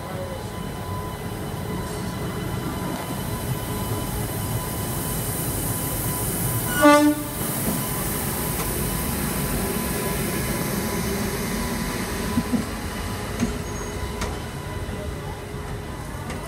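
Express train with a WAP-7 electric locomotive pulling out at low speed, its coaches rolling past with a steady rumble of wheels on rail. About seven seconds in, one short train horn blast, the loudest sound.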